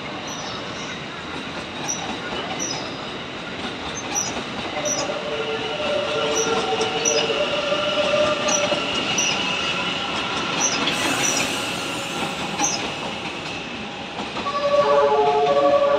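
JR East E001 series TRAIN SUITE Shiki train running past: a steady rumble of wheels on rail with faint regular clicks. Thin, high, sustained tones come and go from about five seconds in, and near the end they grow louder at several pitches at once.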